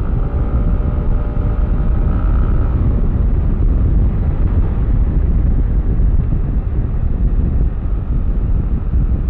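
Yamaha Aerox V3 scooter's single-cylinder engine running at riding speed under heavy wind rush on the microphone. Its pitched engine tone rises slightly about two seconds in, then sinks under the wind.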